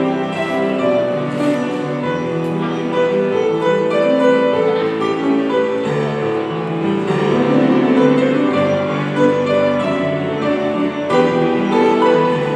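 Piano playing a slow, sustained melody with chords.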